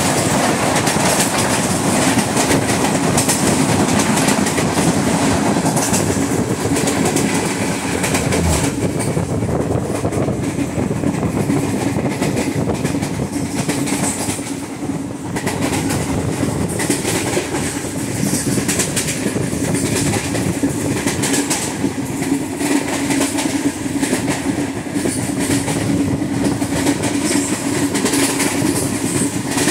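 Interior of an Indian Railways ICF passenger coach running at high speed: continuous clatter and rumble of the wheels on the rails, over a steady low drone. The loudness dips briefly about halfway through.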